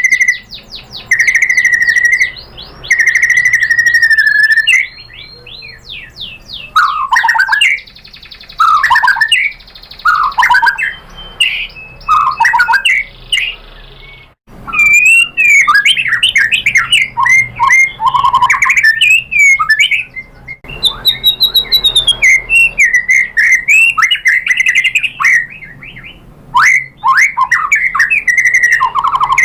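White-rumped shama (murai batu) singing a long, varied song: a few held whistled notes at first, then fast runs of sweeping, chattering notes full of mimicked 'isian' material, with a short break about halfway.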